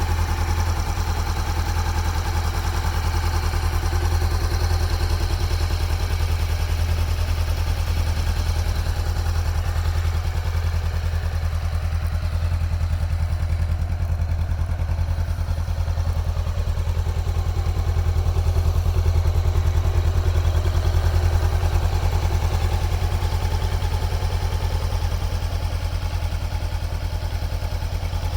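Motorcycle engine idling steadily, with an even, fast beat of firing pulses.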